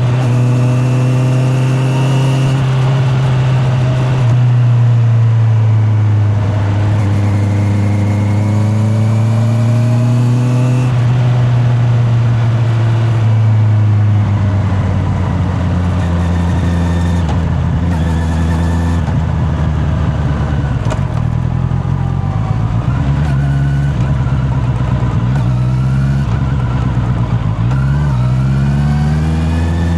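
Honda CB650R's inline-four engine running on the road, heard from the rider's back pocket. Its pitch rises and falls with the throttle: it drops about a third of the way in, runs lower and uneven for a while, then climbs again near the end as the bike accelerates.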